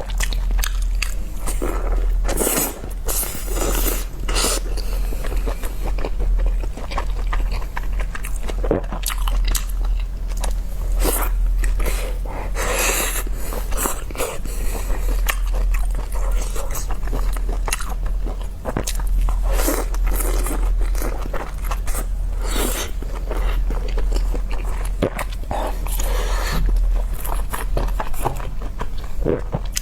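Close-miked eating of large steamed dumplings: biting and chewing with many short, sharp wet mouth clicks and smacks, over a steady low hum.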